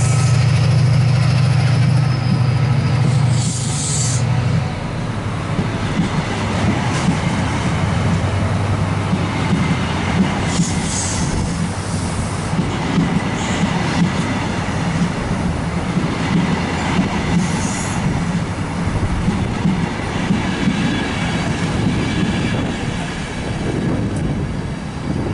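Class 68 diesel locomotive pulling away with a train of coaches: its engine drone is strong for the first few seconds and then fades. The coaches then roll past with rhythmic clicking over the rail joints and a few brief high wheel squeals.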